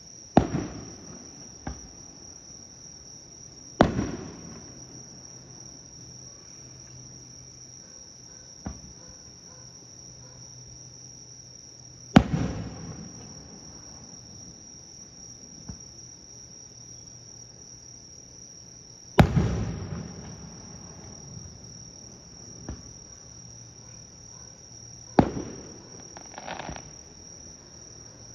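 Aerial firework shells bursting: five loud booms several seconds apart, each trailing off in a rumble, with a few fainter pops between them. Underneath is the steady high chirring of insects.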